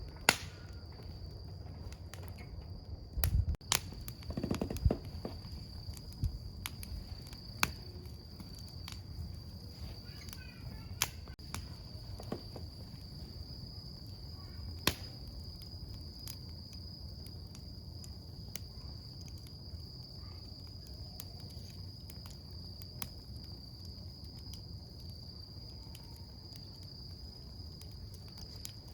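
A wood campfire crackling, with scattered sharp pops and snaps over a low rumble of burning. A steady high insect trill runs underneath. About three to five seconds in there is a short spell of louder low rustling and knocking.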